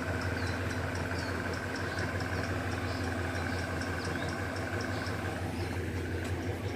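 Diesel train engine running steadily with a low hum. Over it, a fast, regular high chirping of insects at about four or five a second.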